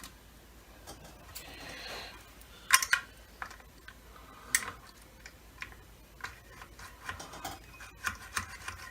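Plastic vacuum cleaner parts being handled and fitted by hand: scattered light clicks and knocks with a brief rubbing scrape near two seconds in, the loudest clicks about three seconds in.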